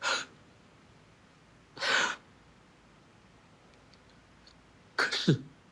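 A person's heavy, distressed breathing: three short sighing breaths a couple of seconds apart, the last trailing into a falling voiced moan.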